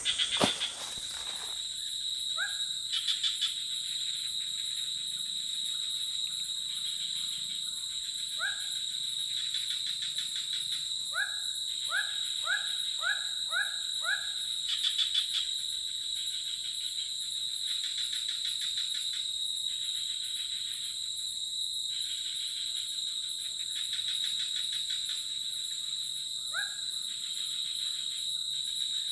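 Tropical forest ambience: a steady high insect drone with bursts of pulsing insect calls every few seconds, and short rising whistles from a bird, a quick run of five about halfway through.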